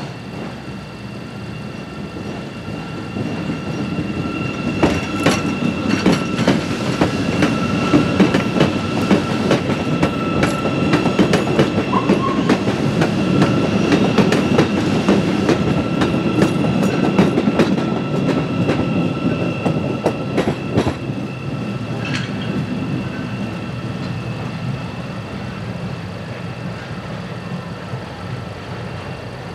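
CTA electric rapid-transit train passing over a grade crossing: it builds over the first few seconds, then its wheels clack repeatedly over the rail joints and crossing for about fifteen seconds before it fades away. A steady ringing from the crossing's warning bell runs underneath.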